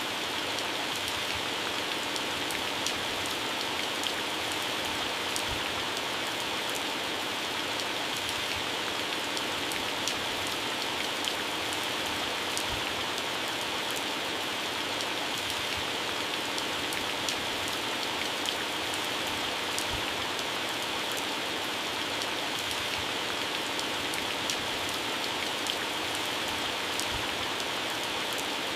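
Heavy rain falling steadily on garden plants and grass: a dense even hiss with the sharp ticks of single drops striking leaves scattered through it.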